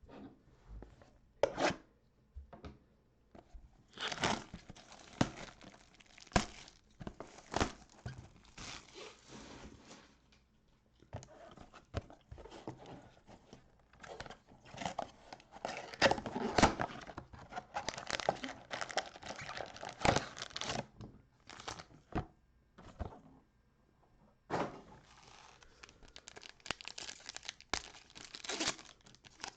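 Trading-card packaging being torn open and crinkled, in irregular bursts of crackling and tearing with sharp clicks and short pauses.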